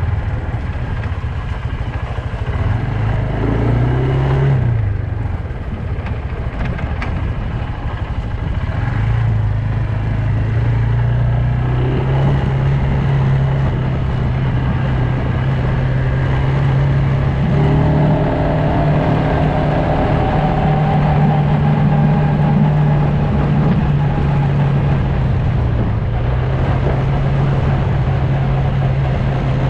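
Loncin X-Wolf 300 ATV engine running on the move, its note dipping and rising with the throttle a few times, under a steady rush of wind and tyre noise.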